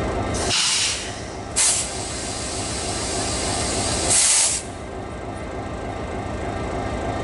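Diesel locomotive idling with a steady low rumble, broken by three bursts of compressed air hissing from the train's air system: one about half a second in, a short one near two seconds, and another just past four seconds.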